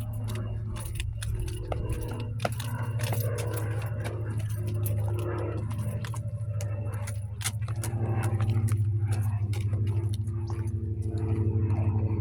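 RC rock crawler trucks driving over rough ground: a steady low hum with many irregular clicks and crunches throughout.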